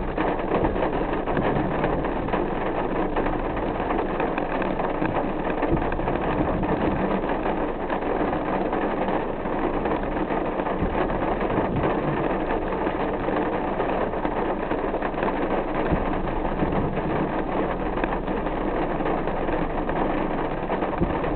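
A car driving in the rain: a steady rush of rain and road noise over the low hum of the engine.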